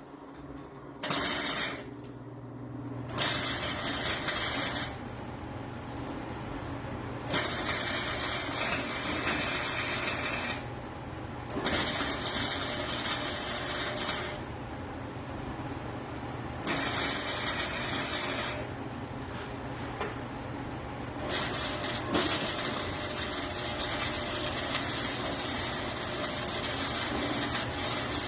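Electric welder laying a series of short beads: six bursts of crackling hiss, from about one second to several seconds long, with the welder's steady hum between them.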